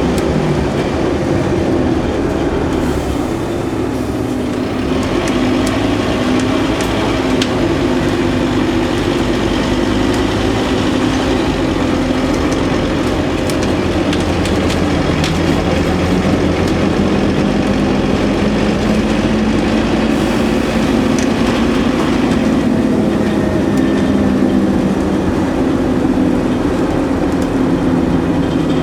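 Scania N230UD OmniCity double-decker bus under way, its diesel engine and ZF automatic gearbox droning steadily. The engine note rises and falls a few times as the bus speeds up and slows, with light rattling clicks now and then.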